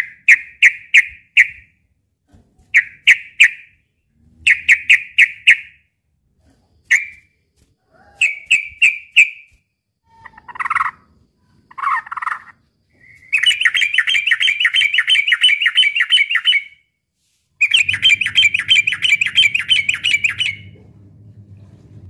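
Yellow-vented bulbul (trucukan) song in the fighting style: short phrases of three to five sharp chirps. About 13 seconds in, these give way to two long, rapid chattering runs of about three seconds each.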